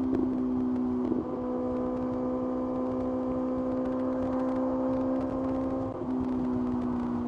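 Kawasaki ZX-6R's inline-four engine running at steady revs on the move, its tone changing abruptly with a brief dip about a second in and again near the end.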